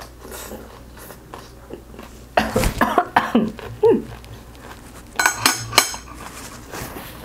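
Close-miked chewing of a mouthful of rice and stir-fried kimchi, with wet mouth clicks and smacks. A few sharp clicks of metal chopsticks against a plate near the end.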